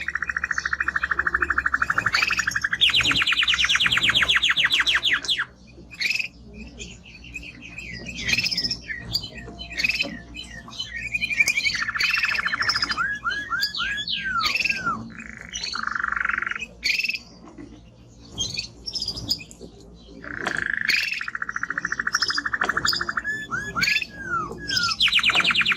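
Male Spanish timbrado canary singing: long, fast trills of rapidly repeated notes, first a lower roll and then a higher one. These alternate with short pauses and quick looping notes, and the pattern comes round again near the end.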